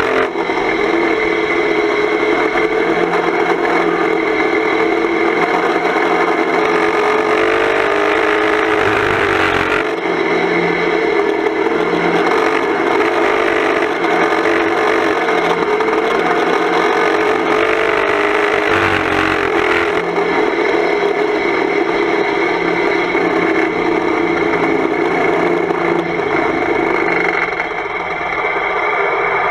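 Volvo 240 estate banger race car's engine running hard under racing load, heard from inside the stripped cabin. The note is loud and steady, wavering in pitch as the car laps.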